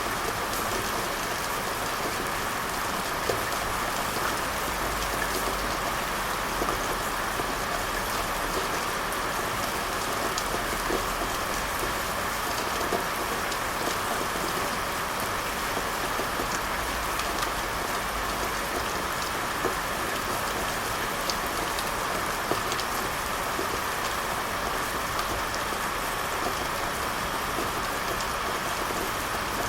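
Steady rain falling, an even hiss with many small drop ticks and now and then a louder drop.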